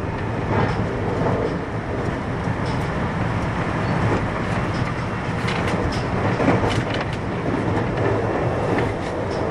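Running noise inside a JR West 521 series electric multiple unit's motor car (KuMoHa 521) as the train travels along the line: a steady rumble of wheels on rail with a few light clicks.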